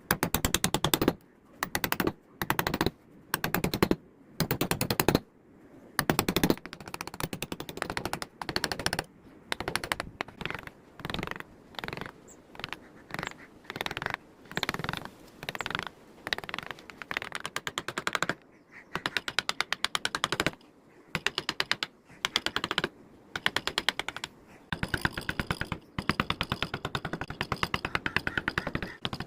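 Carving tool working teak wood in repeated short strokes, each stroke a rapid run of clicks, with brief pauses between strokes.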